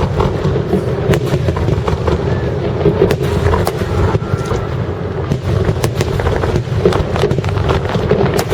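Fireworks display: shells bursting in rapid succession, many sharp bangs a second over a continuous low rumble.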